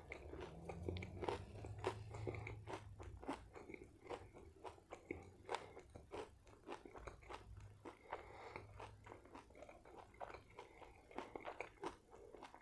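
Close-up chewing of a burger: many small wet clicks and crunches several times a second, with a low hum underneath.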